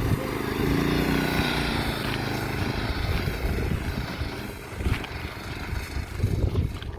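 Small single-cylinder engine of a chain-driven go-kart running under way with its newly fitted clutch engaged, growing fainter as it moves off.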